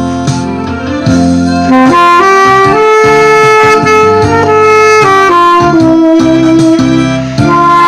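Saxophone playing a slow melody in long held notes over an instrumental accompaniment.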